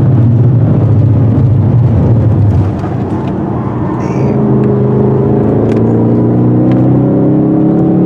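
Supercharged Roush Ford Mustang's 5.0-litre V8 heard from inside the cabin, running hard on track. About two and a half seconds in the engine note drops off briefly, then it accelerates again, its pitch rising steadily.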